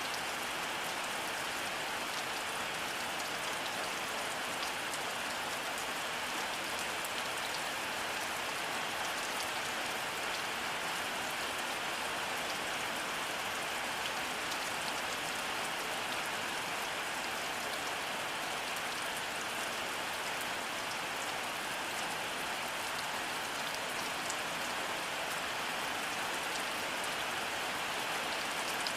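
Steady rainfall: an even hiss of rain with faint ticks of individual drops scattered through it, unchanging throughout.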